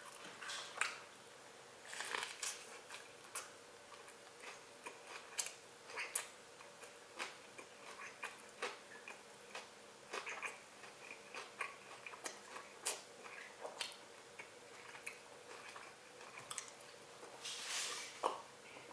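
Close-up chewing of a sandwich: irregular wet mouth clicks and smacks, several a second. Near the end there is a louder noisy stretch as water is sipped from a glass.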